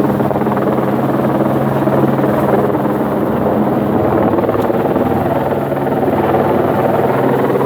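Helicopter running close by, lifting a load of building material. Its rotor chop is loud and steady.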